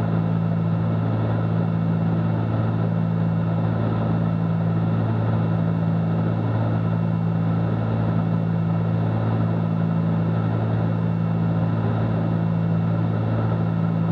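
Cabin drone of a Cessna 310Q's twin piston engines in cruise flight: a steady low hum with a fixed pitch and airflow hiss, unchanging throughout.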